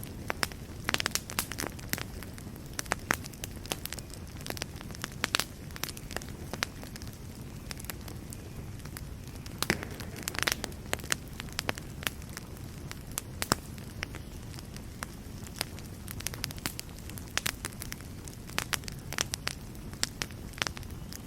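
Wood fire burning in a fireplace, with a steady low rumble of flames and frequent irregular sharp crackles and pops.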